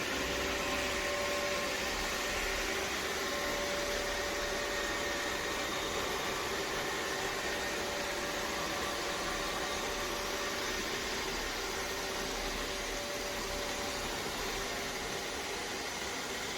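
iRobot Roomba Vac Essential (Q0120) robot vacuum running, a steady whirring hiss with faint motor whines that come and go, while it searches for its charging dock.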